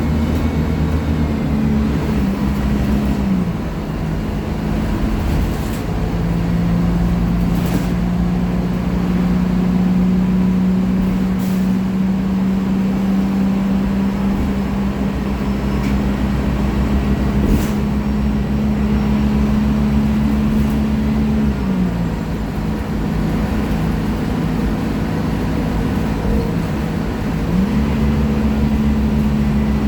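Scania K-310 articulated city bus heard from on board, its engine running under load. The engine's pitch drops about three seconds in, climbs slowly, drops again near the end and then jumps back up, as the revs change with the automatic gearbox's shifts. A few sharp knocks and rattles from the body come through.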